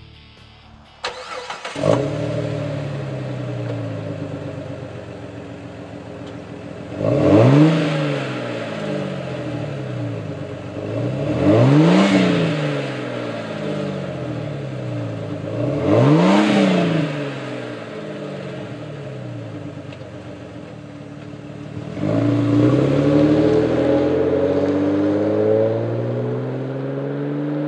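Exhaust note of a Jeep Grand Cherokee's 4.0-litre inline-six through a Flowmaster American Thunder cat-back system with a Super 50 series muffler. The engine starts about two seconds in and idles, then is blipped three times, each a quick rise and fall in pitch. About three-quarters of the way through, the revs climb slowly and stay up: a mild, subtle performance tone.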